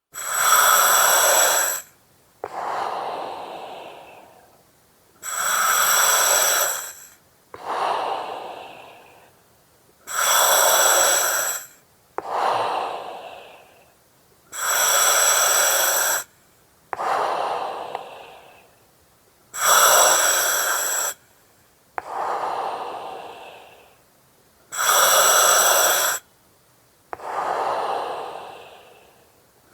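Slow, even breathing through an oxygen mask: each breath is a loud hiss of gas with steady whistling tones that starts and stops sharply, followed by a softer breath that tails off. About six breaths, one every four to five seconds.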